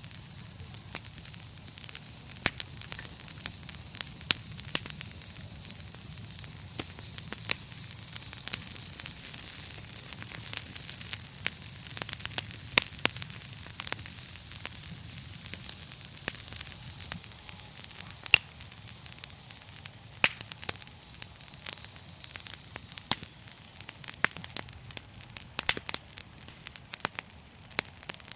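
Wood fire burning in a fireplace, with a steady low rumble and hiss and sharp pops and crackles at irregular intervals.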